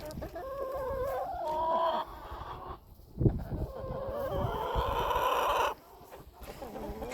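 Rhode Island Red hens clucking and calling in drawn-out, wavering notes, in two stretches with a pause between them. A single thump comes about three seconds in.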